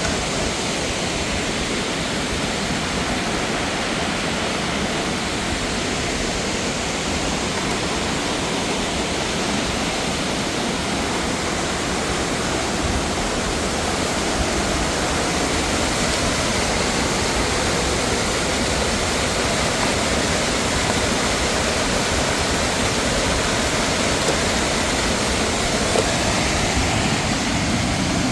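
Rushing water of a mountain waterfall or stream, a steady, unbroken rush.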